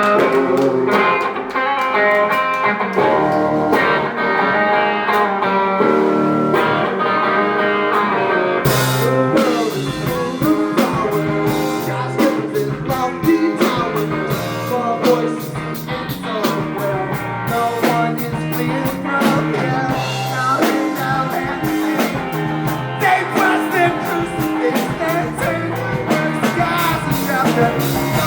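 Live surf-punk rock band playing an instrumental break: electric guitar and bass, with the drum kit's cymbals dropping out for several seconds before a crash at about nine seconds in brings the full band back.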